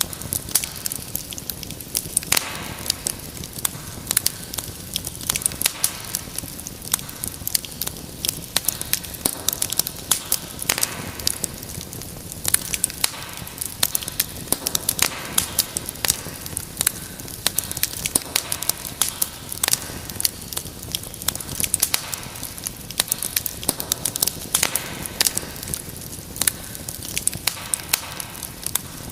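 Wood fire in a fireplace burning steadily, with many irregular sharp crackles and pops over a low hiss of flame.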